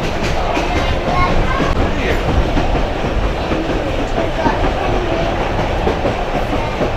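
Steady rumble and rattle of a moving broad-gauge heritage railway train, its wheels running over the rails.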